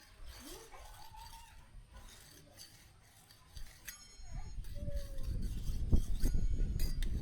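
Two light metallic clinks with a brief ring, about four seconds in and again near the end, over rising rumbling and knocking handling noise.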